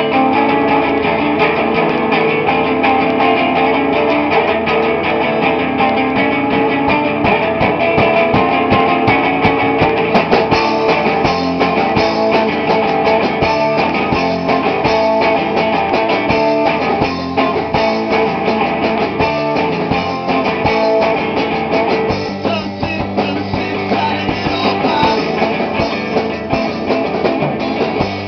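Rock band playing loudly in rehearsal: guitar, bass and drum kit together.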